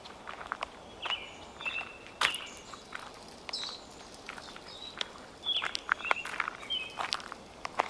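Footsteps crunching through dry fallen leaves, with short bird chirps several times.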